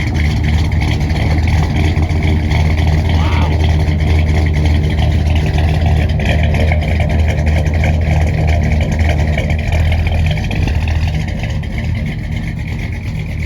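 The 390 cubic-inch V8 of a 1964 Ford Galaxie 500, fed by three two-barrel carburetors (Tri-Power), running with a steady deep rumble that eases off a little near the end.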